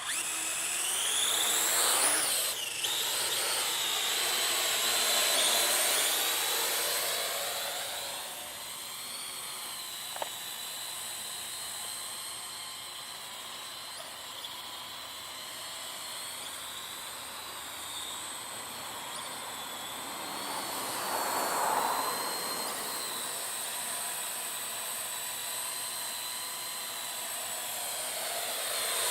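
Parrot AR.Drone 2.0 quadcopter flying, its four electric motors and propellers making a high whine that slides up and down in pitch as it manoeuvres. Louder for the first several seconds, then fainter, with a brief swell about three quarters of the way through.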